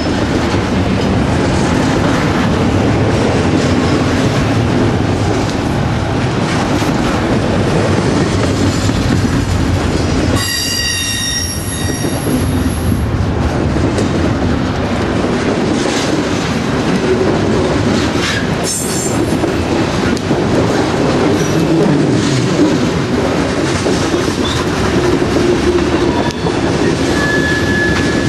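Train rolling past, steel wheels running over the rail joints with a steady clickety-clack. About ten seconds in, a high wheel squeal rings briefly for about two seconds.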